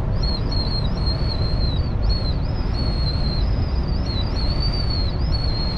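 Amtrak passenger train running, heard from inside the car: a steady low rumble of the ride with a thin, high-pitched whine that wavers slightly in pitch throughout.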